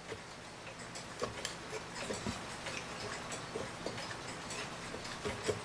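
Faint, uneven light clicks and taps from handling the mantel clock's case while its screws are taken out.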